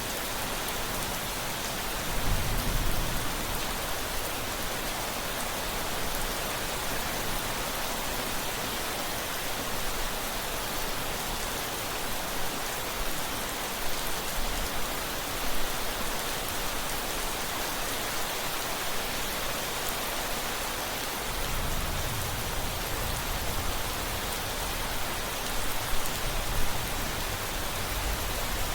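Steady rainfall hissing, with low rumbles of distant thunder about two seconds in, again past twenty seconds, and a louder pair near the end.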